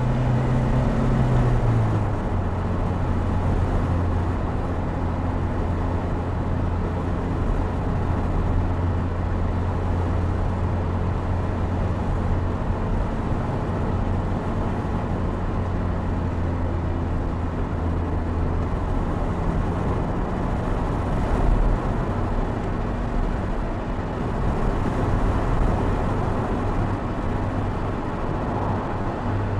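Opel Speedster Turbo's mid-mounted turbocharged 2.0-litre four-cylinder engine running as the open roadster is driven, with wind and road noise. The engine note drops about two seconds in and then holds steady, fades under the wind and tyre noise past the middle, and picks up again at the very end.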